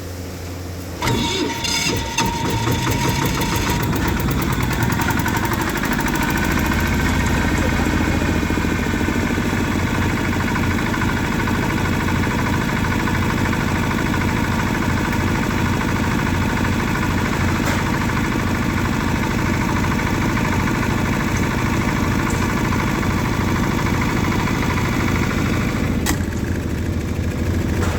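10 kVA single-phase diesel silent generator starting about a second in, turning over rapidly for a few seconds before settling into a steady run. There is a sharp click near the end.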